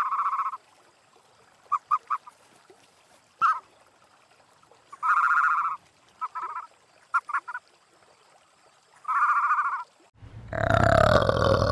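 Waterfowl honking: single drawn-out honks alternate with quick runs of two or three short notes. About ten seconds in, it cuts suddenly to a loud, deep animal grunt.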